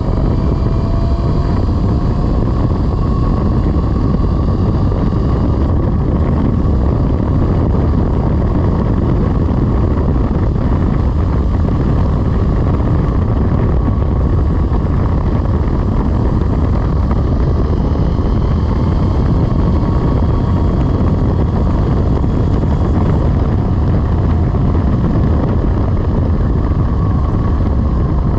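Velimotors VMX12-F electric motorcycle on the move: steady wind rush and buffeting on the microphone with a low rumble, over a faint whine from the electric drive that rises in pitch near the start.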